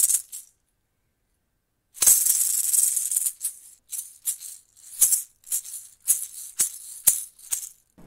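Maracas being shaken: a rattle that stops just after the start, a pause of about a second and a half, then a steady shake followed by a quick run of separate, crisp shakes.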